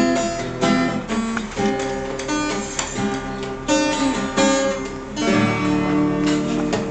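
Acoustic guitar playing the song's introduction, a run of plucked and strummed notes, settling into a held chord near the end.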